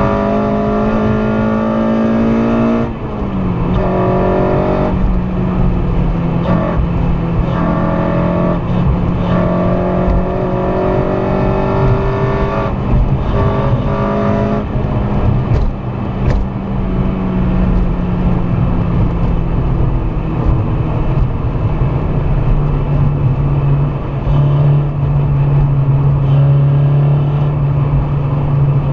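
K24A2-swapped Honda Civic Si's 2.4-litre four-cylinder engine running hard at high revs, with a brief dip about three seconds in. After that its pitch eases slowly lower over the rest of the stretch, over steady road noise.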